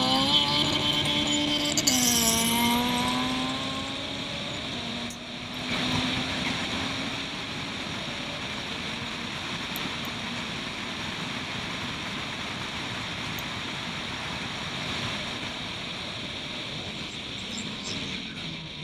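Turbocharged Suzuki Swift race car's engine at high revs, its pitch dropping sharply about two seconds in, then fading under a steady, even rushing noise.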